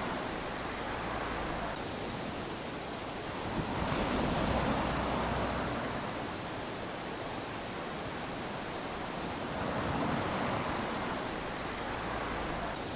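Small waves lapping onto a sandy beach: a steady wash of surf that swells twice, about six seconds apart, as waves run up the sand.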